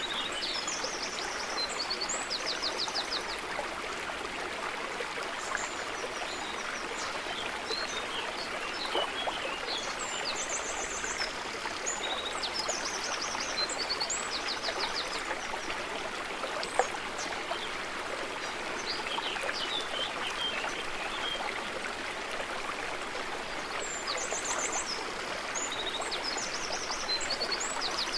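Stream water running steadily over stones, with songbirds calling in short, fast trilled phrases near the start, around the middle and again near the end. One sharp click stands out about seventeen seconds in.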